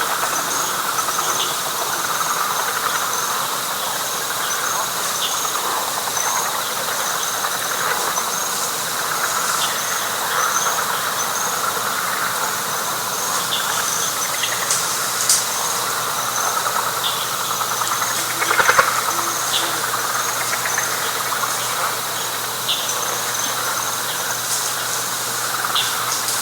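Night chorus of frogs in a wet pine flatwoods swamp: a dense, continuous trilling, with rows of short high chirps and a steady high tone above it. A short, louder call stands out about two-thirds of the way through.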